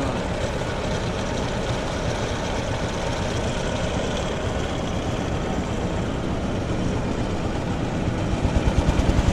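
Old-style engine-driven rice thresher running steadily, its engine, drum and blower giving a dense, even noise. Near the end it grows louder and pulses.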